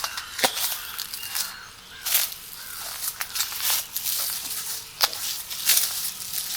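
Footsteps of a walker on a path, with irregular steps about every half second to a second and rustling between them.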